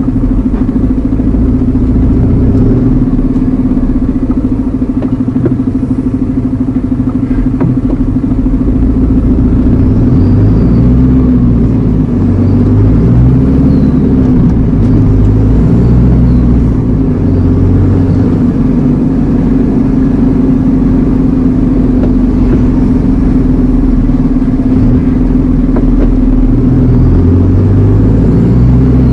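Iveco Eurocargo lorry's diesel engine heard from inside the cab while driving: a steady drone over a deep rumble, the low note shifting in steps a few times as the revs change.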